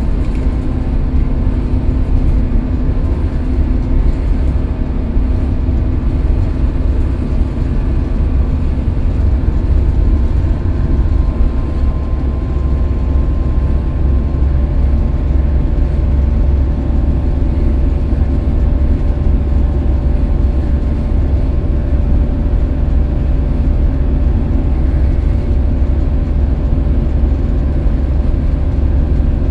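Scania K320UB bus's five-cylinder diesel engine running steadily with a continuous low rumble, a faint whine above it drifting slightly in pitch.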